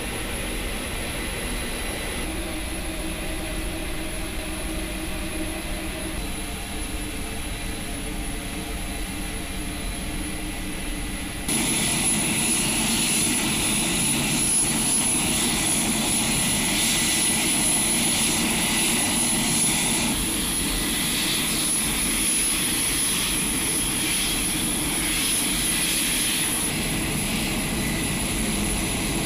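HC-130J's four turboprop engines running steadily. The sound jumps abruptly louder about eleven seconds in, with a high whine and hiss added, and shifts again a few times after that.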